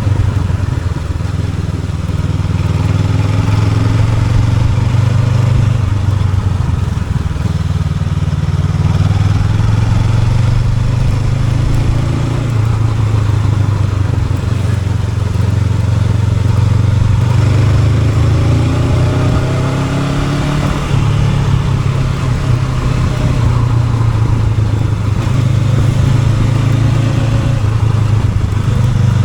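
Honda NX500's parallel-twin engine running steadily while the motorcycle is ridden, its pitch shifting slightly with the throttle a couple of times.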